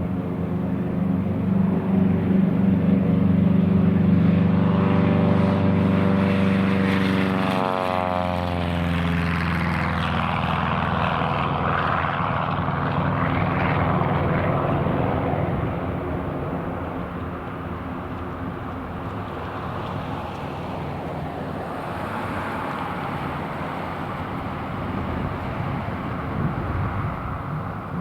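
Cessna 172RG Cutlass II's propeller and four-cylinder Lycoming O-360 engine running loud as the plane passes close by. Its pitch drops about eight seconds in as it goes past, then the sound becomes a fading roar.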